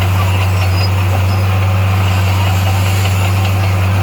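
Heavy diesel engine of construction equipment running steadily with a deep, even hum.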